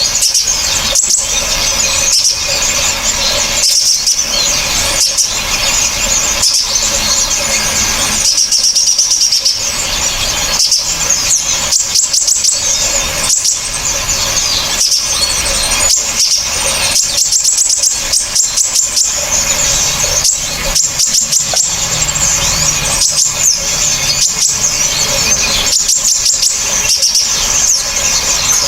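Small songbirds giving sharp, harsh, high-pitched calls in rapid, unbroken succession, dense chips and squeals with no pause.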